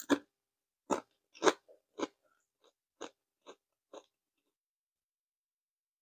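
A person chewing a mouthful of Everything Bagel Pringles potato crisps: about eight short crunches, roughly half a second apart, that grow fainter and stop about four seconds in.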